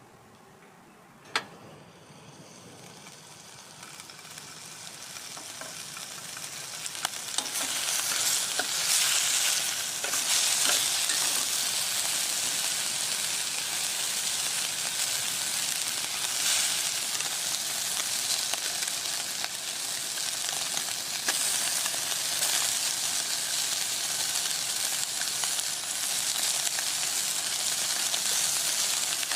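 Food sizzling in a hot pan. A single sharp click comes about a second in, then the frying builds steadily louder over several seconds and settles into a continuous crackling sizzle.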